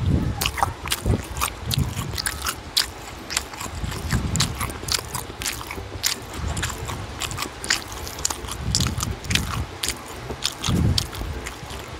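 Close-miked chewing of steamed siomai: a run of mouth clicks and smacks, several a second, over soft low chewing sounds.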